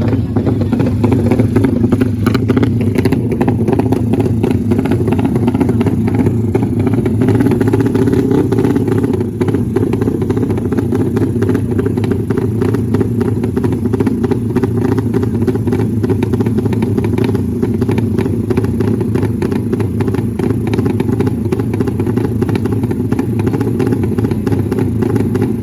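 Motorcycle engines running steadily, a dense fast pulsing that dips briefly about nine seconds in.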